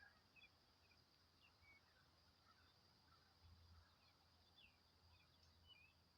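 Near silence with faint, short bird chirps scattered through, over a steady high hiss.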